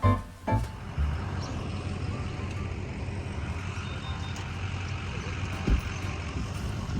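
Steady rushing noise with no clear tones, after a few closing notes of background music. A single dull thump comes near the end.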